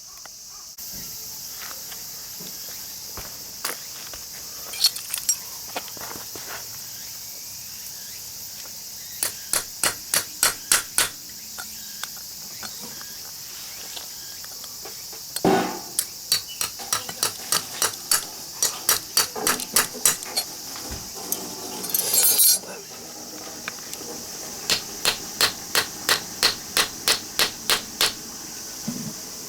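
Hammer driving a narrow stainless-steel scraper into a small transformer's laminated core, in runs of quick sharp metallic taps, about four a second, with pauses between the runs. A steady high insect drone runs underneath.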